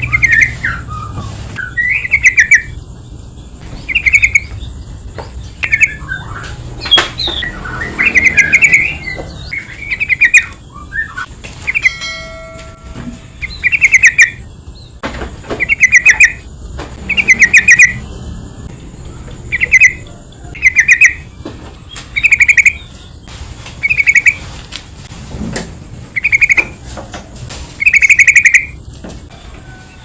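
Yellow-vented bulbul calling: short, loud, rapidly pulsed chattering phrases repeated about every one and a half to two seconds, the kind of call played to provoke other bulbuls into answering.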